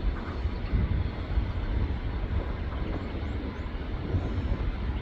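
Jet airliner engines: a steady low rumble with faint steady tones above it.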